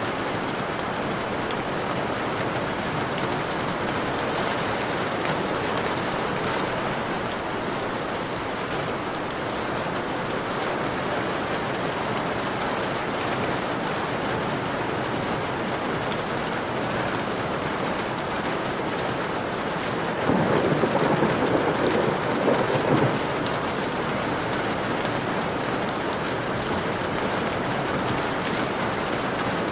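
Steady rain falling on a window, with scattered individual drops ticking against the glass. About two-thirds of the way through, a low roll of thunder swells for about three seconds and fades.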